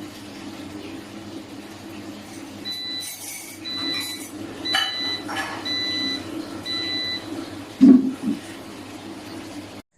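Air fryer beeping five times, about one beep a second, over the steady low hum of its running fan, then a single dull thump.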